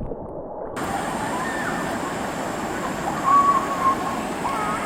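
Valley stream water rushing steadily over rocks, with a few high, thin gliding chirps above it from about a second in. The sound is muffled for the first moment, then opens up.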